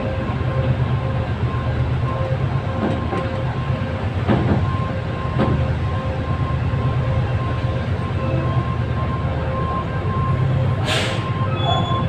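Diesel-hauled passenger train rolling slowly: a steady low engine drone with a faint pulsing whine over it, a few wheel clunks around four to five seconds in, and a short hiss near the end.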